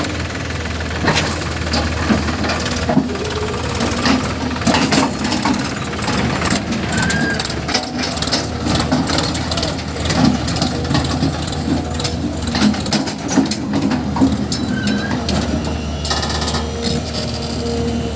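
Diesel engines of a backhoe loader and a tractor running steadily, with frequent short knocks and clanks as mud is loaded.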